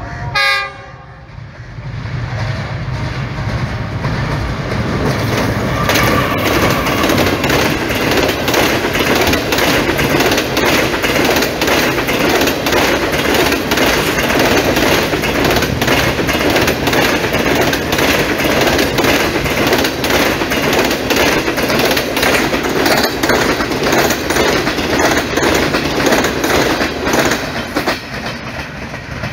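Diesel-hauled passenger train passing close at speed. A short horn blast sounds at the very start, then a loud, steady rush of wheels and coaches with repeated clatter over the rail joints, easing off near the end.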